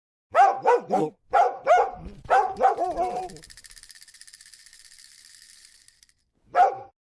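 A dog barking fast, about seven barks in a row, then a faint rapid high rattle for about three seconds and one more bark near the end: alarm barking set off by the doorbell.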